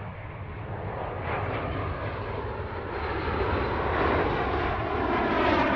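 Military aircraft passing overhead, its engine noise growing steadily louder as it approaches, with a sweeping, wavering quality.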